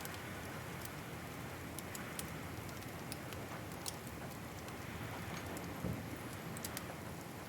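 Wood fire crackling in a fireplace: scattered sharp pops and ticks over a steady hiss, with one softer low thump about six seconds in.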